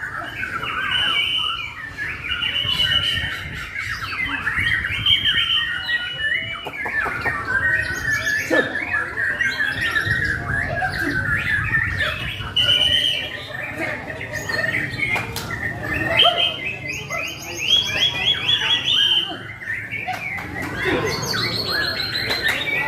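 White-rumped shama (murai batu) singing hard in a long, unbroken, varied song of whistles, chatters and fast trills.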